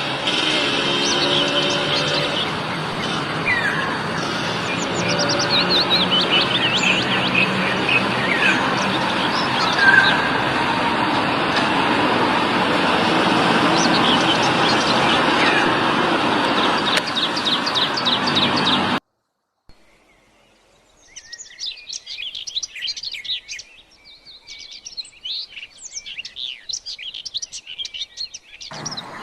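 Wild birds chirping and calling over a steady rushing background noise. About two-thirds of the way through the noise and calls cut off abruptly, and after a short gap a fast run of high, chattering chirps follows.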